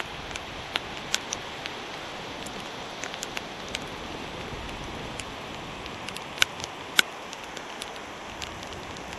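Light rain: scattered raindrops ticking sharply and irregularly on the microphone and camera, over a steady hiss. Two ticks about six and a half and seven seconds in stand out as the loudest.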